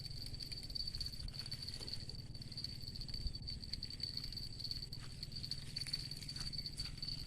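Steady high-pitched insect drone, pulsing slightly, over a low steady rumble, with a few faint ticks.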